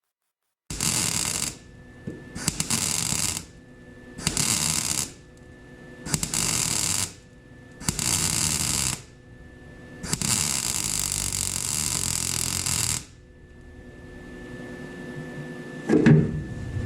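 Welding arc stitch-welding a steel patch into a pickup bed: six bursts of crackling, each about a second long and the last about three seconds, with short pauses between. A single knock near the end.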